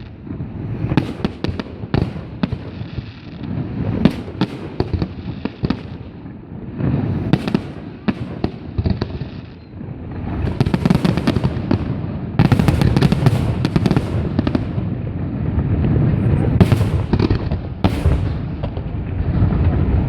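Aerial fireworks going off: a run of sharp bangs and crackles. About halfway through they thicken into a dense, continuous barrage.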